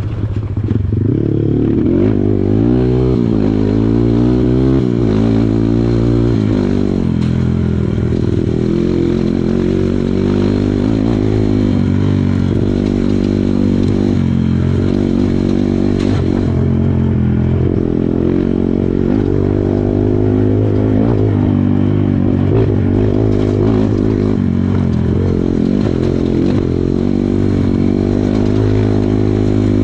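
Kawasaki KLX140 dirt bike's single-cylinder four-stroke engine running hard off-road, its revs rising and falling every few seconds as the throttle is worked.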